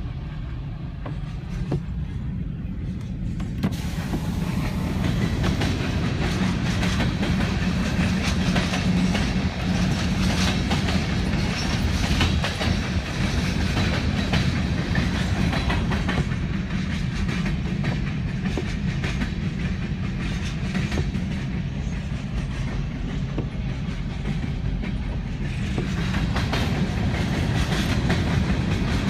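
Canadian National freight train rolling past: a steady low rumble with the cars' wheels clattering rapidly over the rails. The clatter grows much louder a few seconds in and keeps on as the cars go by.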